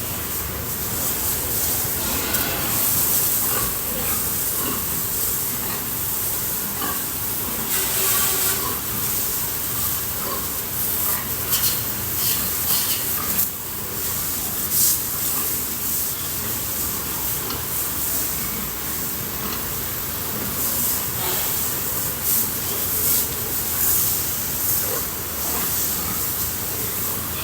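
Jet of water spraying steadily with a loud hiss, with a few brief louder spurts, as pigs are washed down.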